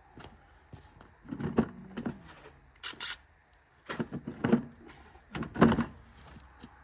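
Metal tools and sockets clinking and clattering in a few irregular bursts of handling noise, as a socket is sorted out and fitted to an impact gun.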